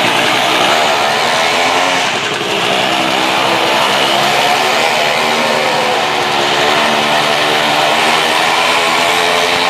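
Several motorcycle engines running together and revving, their pitches rising and falling.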